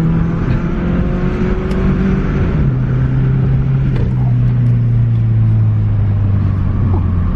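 Subaru Impreza 2.5 RS flat-four engine running through a muffler-deleted exhaust, a loud, deep drone whose pitch steps down a few seconds in and then slowly falls as the revs ease off.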